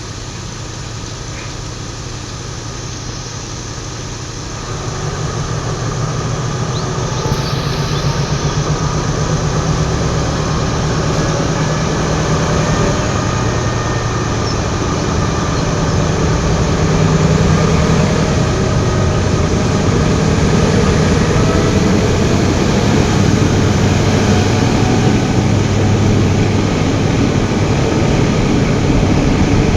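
Diesel train running by at close range: engine drone and wheel noise, getting louder about five seconds in and staying loud.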